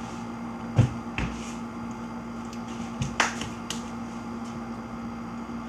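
A few sharp knocks and clicks: the loudest about a second in, and another pair around three seconds, over a steady low hum.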